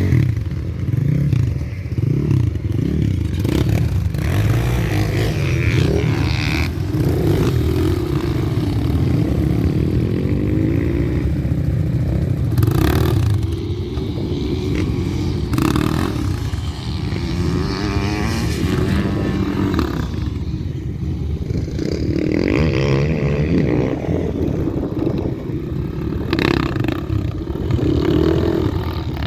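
Gas Gas EC200 two-stroke enduro motorcycle engine revving up and down constantly while riding off-road. A few sharp knocks and clattering scrapes are heard from the bike working over rough ground.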